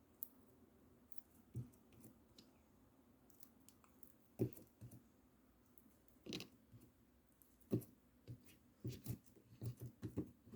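Scattered small clicks and soft knocks at irregular intervals, coming closer together near the end.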